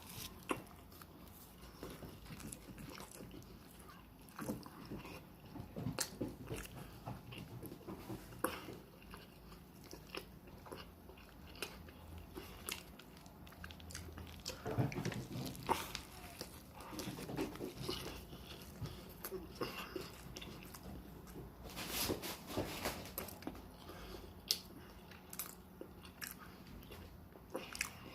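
Close-up mouth sounds of a person biting into and chewing a turkey and cheese sandwich, with irregular wet smacks and clicks and a few denser bursts of chewing.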